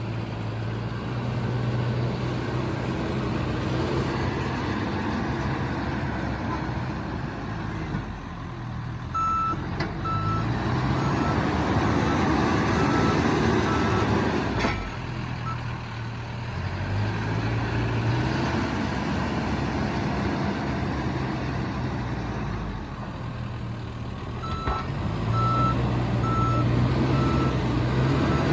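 John Deere 310SK backhoe's diesel engine running and revving up and down several times under load. Its reverse alarm beeps about twice a second for a few seconds near the middle and again near the end.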